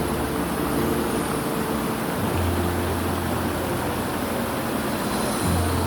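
Steady rush of a mountain stream, with a backing track's sustained low notes under it that change a couple of times.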